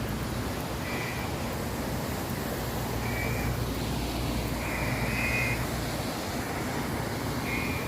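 Steady rush of surf and wind, with a bird giving short high calls about every one to two seconds.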